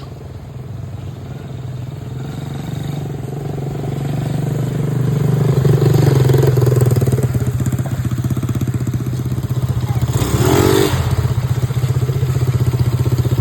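Quad bike engine running, growing louder over the first six seconds as it approaches, then running steadily close by.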